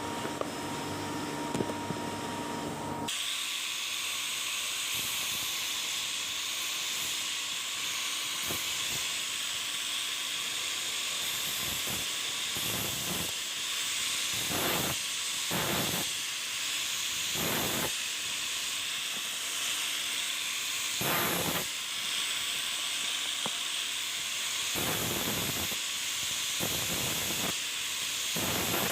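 A steady hiss that starts about three seconds in and carries on, with several brief stronger surges that reach lower in pitch.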